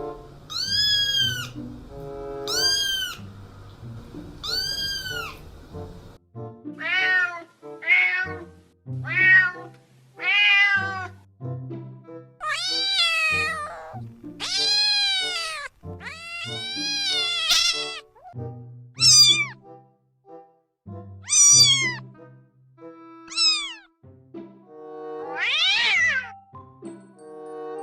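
Kittens meowing again and again over background music: three identical meows about two seconds apart, then a quicker run of meows that vary in pitch.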